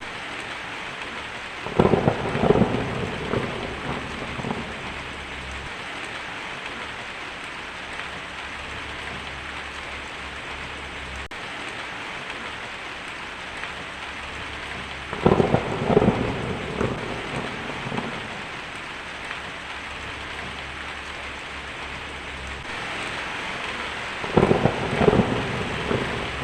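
Heavy rain drumming steadily on a tin roof, with three peals of thunder cracking and rumbling: one about two seconds in, one past the middle and one near the end.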